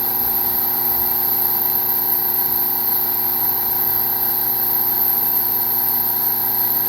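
Hydraulic log splitter's electric motor and pump running with a steady hum and a high whine while the ram pushes into a log.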